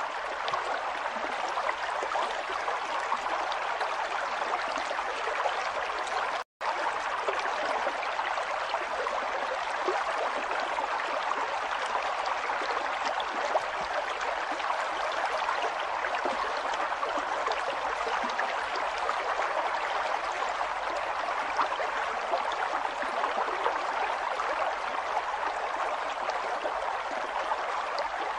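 River water flowing steadily, a continuous rushing and gurgling of a stream. The sound drops out for an instant about six and a half seconds in.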